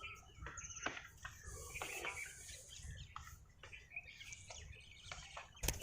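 Faint songbird chirps and calls, many short notes scattered throughout, with a quick high trill about half a second in. A sharp click comes near the end.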